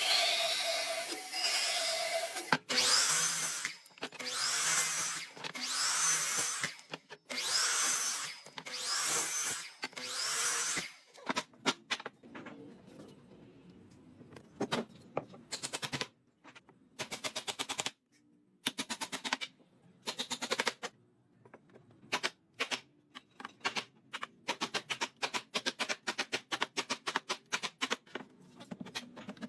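Woodworking tools on wood. First comes a power tool worked in repeated passes of about a second each, each with a rising whine. Then come short runs of rapid clicking with pauses between them.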